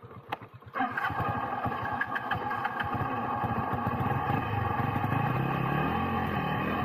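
Motorcycle engine running, jumping sharply louder about a second in and staying loud and steady.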